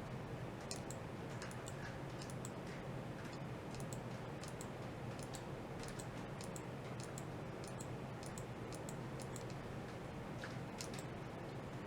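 Irregular sharp, high-pitched clicks, several a second, over a steady low hum.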